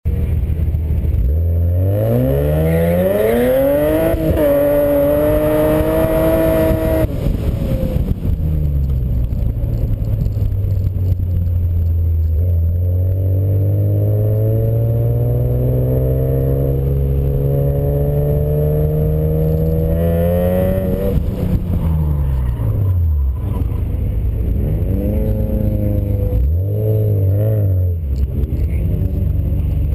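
Car engine with a misfire being revved in the stand: it climbs quickly and holds high for a few seconds, drops back to idle, then rises slowly for several seconds before falling again, with a few short blips of the throttle near the end.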